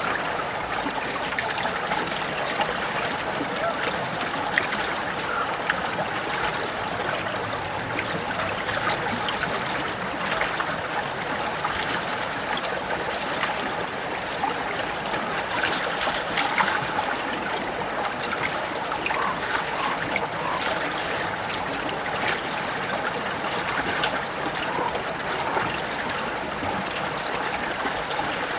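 Small stream running under snow and ice: a steady rush of flowing water with bubbling and trickling throughout.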